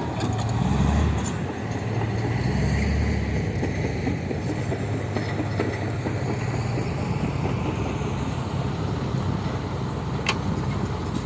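Heavy diesel engine running with a steady low rumble, swelling briefly about a second and three seconds in, with one sharp tick near the end.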